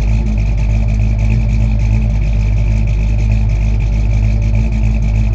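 An engine running steadily and loudly, with a fast, even pulse.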